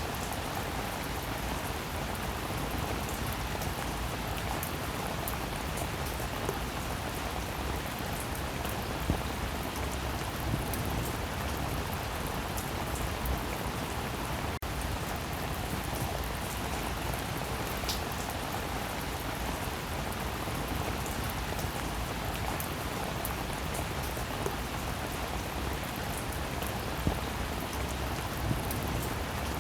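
Steady rainfall: an even hiss of rain with individual drops ticking through it and a few sharper, louder drop hits now and then.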